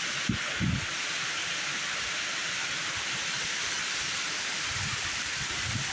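Heavy rain pouring down in a thunderstorm: a dense, steady hiss, with a few soft low thumps near the start and again near the end.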